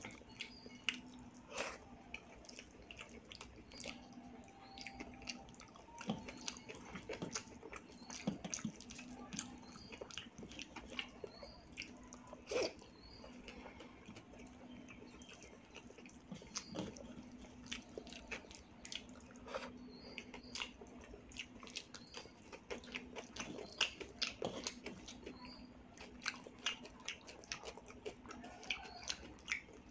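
Close-miked chewing and wet mouth sounds of a person eating soft rice mixed with mashed bhorta by hand: irregular lip smacks and clicks every second or so. A faint steady low hum runs underneath.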